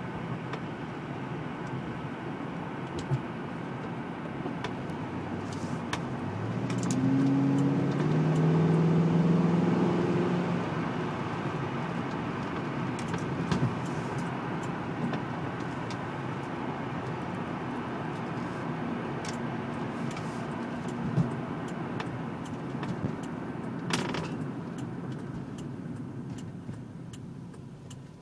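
Corvette V8 through its NPP valved performance exhaust. It accelerates about six seconds in with a rising, louder exhaust note, then settles into a steady cruising drone, and near the end it quiets down.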